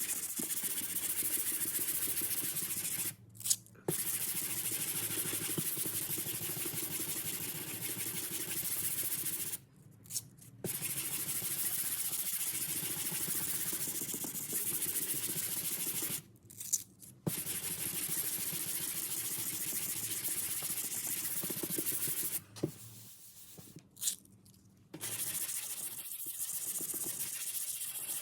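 Sanding UV filler on an aluminium car body panel, a steady abrasive scrape that stops briefly four times, as the filler is flatted down to blend into the panel.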